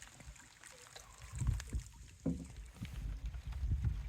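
Canoe on the water: irregular low knocks and bumps against the hull, with some water lapping.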